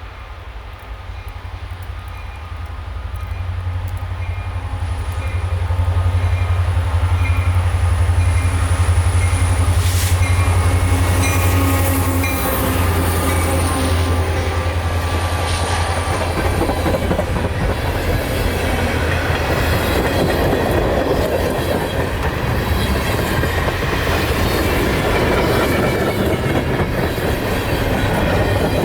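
Diesel freight locomotive passing close by, its engine a steady low drone that is loudest about six to twelve seconds in. It fades into the clickety-clack and rattle of freight cars rolling past.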